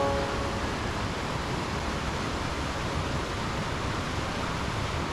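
Steady rushing of flowing water, an even hiss without separate splashes or other events.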